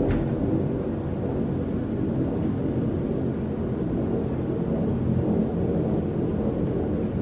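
Airplane flying overhead, its engines making a steady low rumble.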